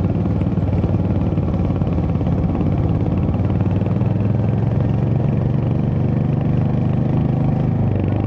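Royal Enfield Hunter 350's single-cylinder engine running steadily while riding, heard from on the bike with road and wind noise. The engine note swells a little in the second half, then eases near the end.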